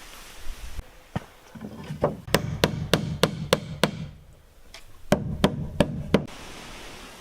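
Hammer blows on wood: a single strike, then a quick run of about seven strikes at roughly three a second, a short pause, and four more strikes.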